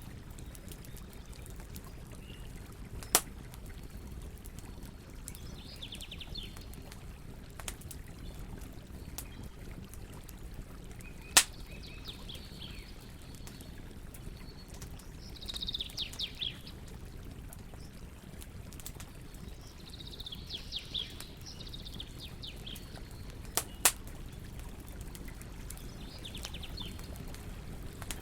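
Campfire burning with a steady low rush and scattered sharp pops, the loudest about 3, 11 and 24 seconds in. Birds chirp in short bursts every few seconds over it.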